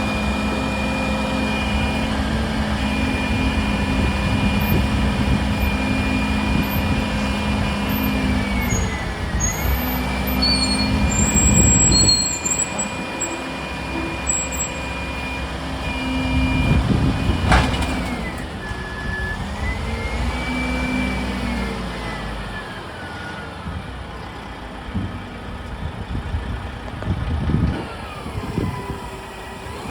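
Heavy diesel engine of a Mack garbage truck running, its pitch falling and rising several times as the engine revs and slows. There is one sharp sound a little past halfway.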